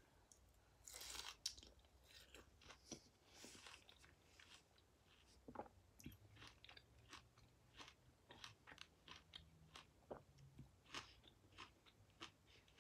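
Faint close-up chewing of juicy, crisp star fruit: irregular soft wet mouth clicks and smacks, with two longer soft hisses in the first few seconds.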